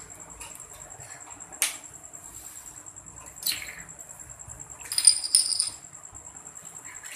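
Slime being mixed and handled, giving a few separate sharp clicks and pops, with a louder clicking clatter that rings briefly about five seconds in.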